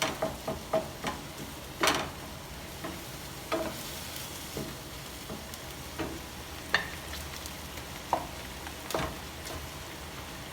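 Food sizzling in a frying pan while a utensil stirs it, with a few sharp clicks of the utensil against the pan.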